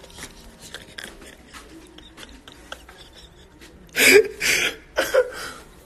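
Faint handling clicks and rustles, then about four seconds in three loud, breathy bursts of a man laughing.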